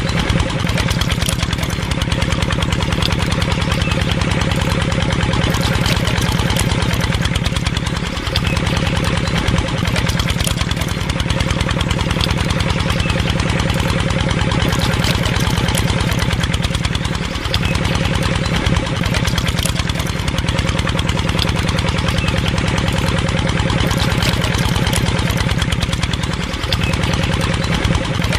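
Small engine running steadily with a rapid, even firing beat. About every nine seconds the beat briefly dips and sweeps in pitch.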